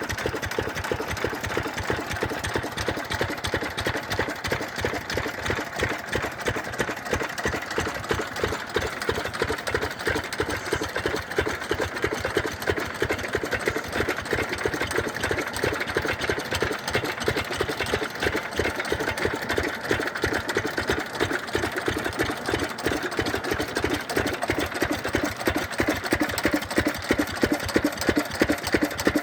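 Stationary diesel engine driving a farm water pump, running steadily with a rapid, even knocking beat.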